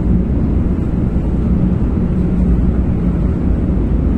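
Steady low rumble and hum inside the passenger car of a 500 Series Shinkansen (the Hello Kitty Shinkansen) as it runs.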